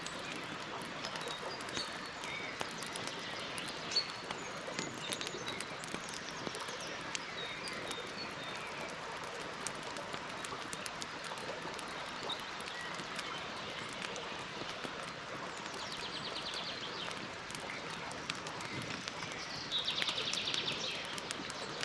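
Campfire crackling with scattered small pops over a steady hiss, while birds chirp in the background. Twice, late on, a bird gives a rapid buzzy trill.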